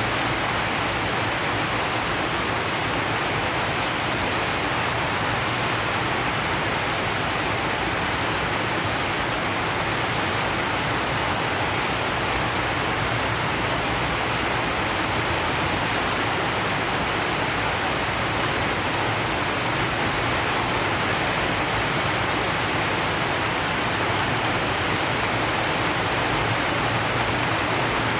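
Steady heavy rain on a corrugated zinc roof, a dense, even hiss with no single drops standing out.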